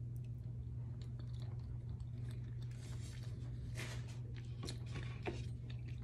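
A person chewing a mouthful of soft meatloaf, with faint, irregular wet mouth clicks, over a steady low hum.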